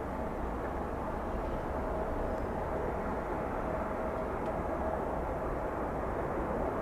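Steady rumble of jet aircraft engines heard across an airport, with a faint steady tone that fades out about halfway through.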